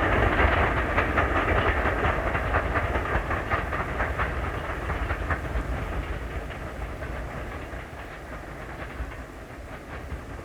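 Train on a steam railway running past, its wheels clicking over the rail joints amid a rumble. The sound fades steadily as the train recedes, and the clicks thin out in the second half.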